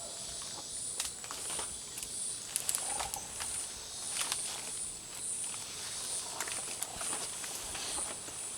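Insects buzzing in a high, steady chorus that pulses about twice a second, with a few scattered rustles and knocks.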